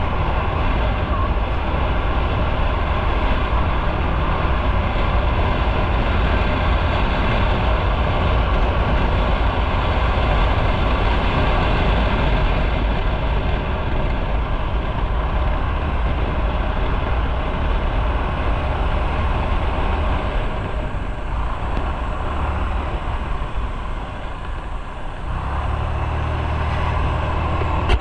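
Motorcycle underway: engine running under a steady rush of wind and road noise. It eases off and drops lower a little past two-thirds through, then picks up again near the end.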